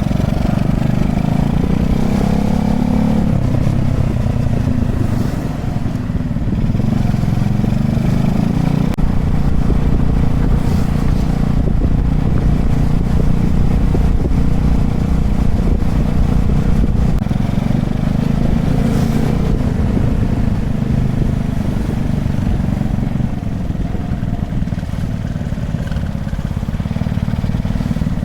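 Honda Chaly minibike's small single-cylinder four-stroke engine running while riding, the engine note rising and falling with the throttle near the start, over a steady low rumble of wind and road noise.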